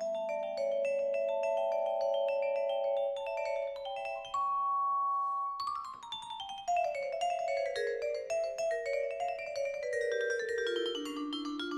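Music played on tuned mallet percussion: rapid struck notes ringing over held lower notes, a short held high note about halfway through, then a long run of notes stepping down in pitch.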